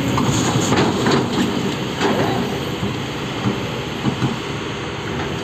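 Heavy machine engine running steadily, a loud dense rumble with no clear breaks.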